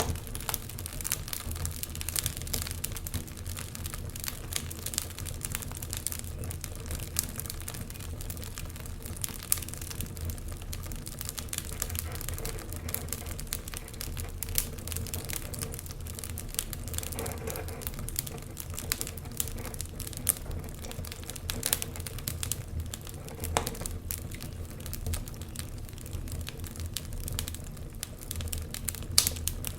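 Wood fire crackling: dense, irregular sharp crackles with a few louder pops, over a steady low rumble.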